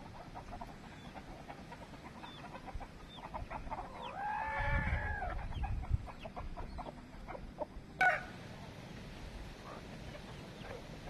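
Chickens clucking and calling, with one rooster crow of about a second and a half starting about four seconds in, and a sharp click followed by a brief squawk near eight seconds. A low wind rumble comes and goes on the microphone.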